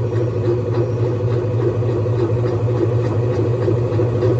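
Small washing machine spinning a load of clothes: a steady motor hum with a faint, regular ticking.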